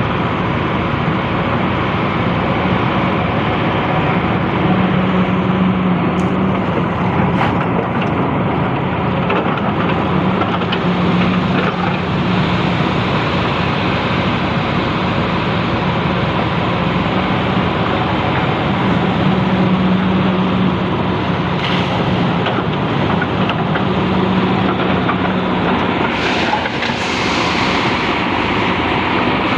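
Excavator diesel engine running steadily under work, its low engine note swelling several times as the machine takes on load.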